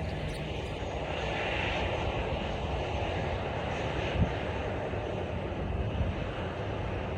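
Airliner jet engines running at taxi power, a steady, even rumbling hiss. A brief knock comes about four seconds in.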